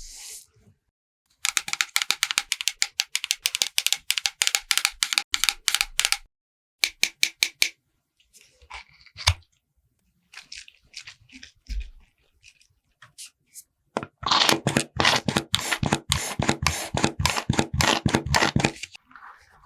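Makeup applicator rapidly tapping thick cream base onto a watermelon rind to blend it, about seven taps a second. It comes in two long runs, with a few scattered taps between them.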